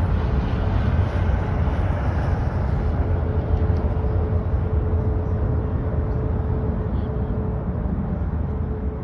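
Jet airliner engine noise: a steady rumble with a thin whine running through it, slowly fading.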